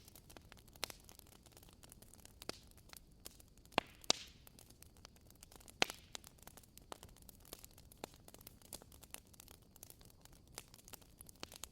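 Burning firewood crackling, with irregular small pops over a soft hiss and a few louder pops around four and six seconds in.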